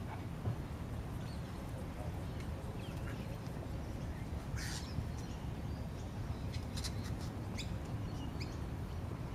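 Birds chirping in short, scattered calls several times over a steady low background rumble.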